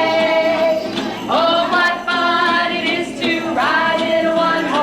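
A song sung by a group of high voices, with long held notes and music underneath.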